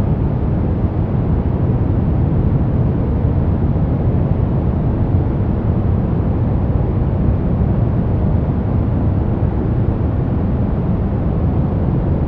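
Steady noise track sold as white noise for sleep, its sound weighted mostly toward the deep end, like a soft even rumble with a thin hiss on top. It never changes.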